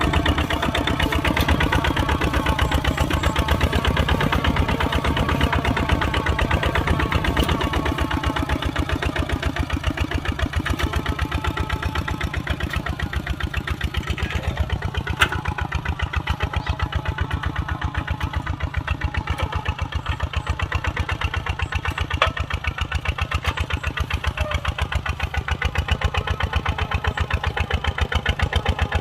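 Kubota RT140 single-cylinder diesel engine of a walking tractor running steadily with a fast, even firing beat, a little quieter through the middle stretch. Two sharp clicks stand out briefly partway through.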